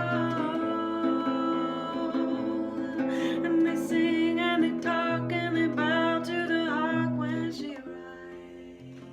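Acoustic guitar playing the closing chords of a folk song, with a wordless sliding vocal melody over it from about three seconds in. It dies away near the end.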